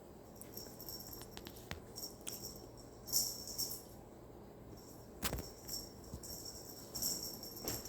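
A cat's toy ball with a bell inside, jingling in short bursts about three and seven seconds in as the cat bats it around. Light taps run through, with one sharper knock about five seconds in.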